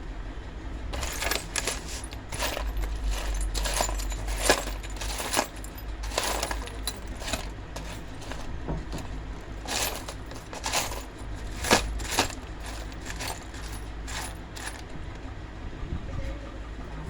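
Small metal objects clinking and knocking against each other and against a hard surface, with many sharp irregular clicks, over a steady low hum.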